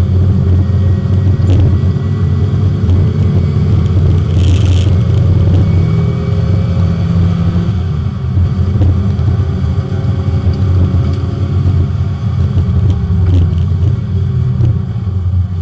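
Porsche 924 race car's four-cylinder engine running hard on track, heard from inside the cabin, its pitch moving up and down as it works. A brief hiss cuts in about four seconds in.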